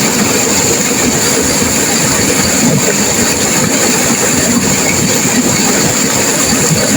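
Turbulent river water rushing and crashing in a steady, loud, unbroken roar.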